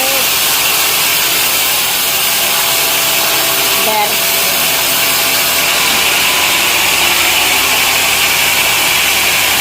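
Sawmill machinery running steadily, a saw cutting through a log with a loud, even hiss.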